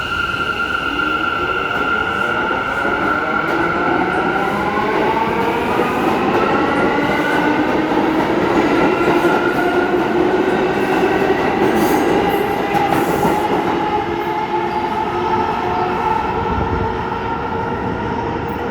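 R179 subway train pulling out of the station: its traction motors whine in several tones that rise in pitch together as it accelerates, then level off, over the rumble of the cars on the rails.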